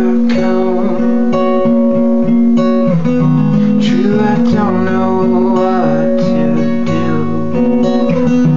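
Acoustic guitar playing the instrumental introduction of a slow song, chords held and changing every second or two.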